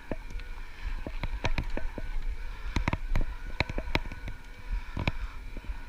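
Electric bike being ridden uphill on pedal assist: low wind rumble on the microphone and a faint steady whine from the motor, with many irregular sharp clicks and knocks of the bike rattling over the road surface.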